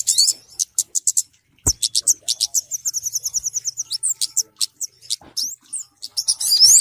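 A small-bird lure recording that combines kemade and sogok ontong calls: rapid high-pitched chirps, quick trills of repeated notes and short rising whistles, with one dull thump about a quarter of the way in.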